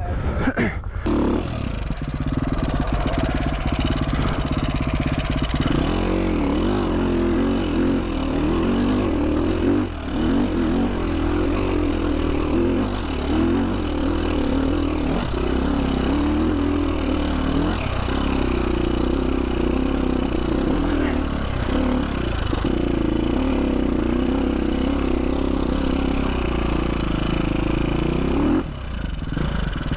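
KTM 450 SX-F dirt bike's single-cylinder four-stroke engine running under load, its revs rising and falling constantly as the throttle is worked, with a brief drop in the engine note near the end.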